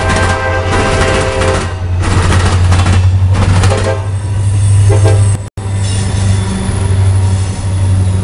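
Amtrak passenger cars passing at speed while a train horn sounds for the first second and a half, with brief horn notes again near three and five seconds in. After an abrupt cut about five and a half seconds in, CSX diesel freight locomotives roll close by, engines rumbling and wheels clattering.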